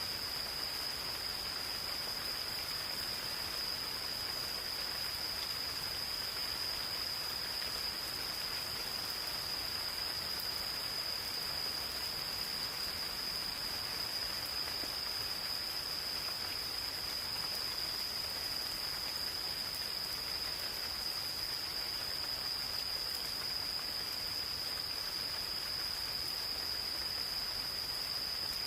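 Gentle rain falling steadily, with insects singing one unbroken high-pitched tone over it.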